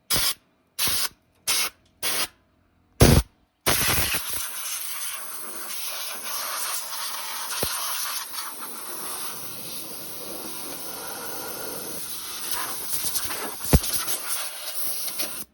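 Compressed air blasting animal-nest debris and acorns out of a lawn tractor engine's cooling fins. It comes as about six short blasts, then one long continuous blast that cuts off sharply, with a single knock near the end.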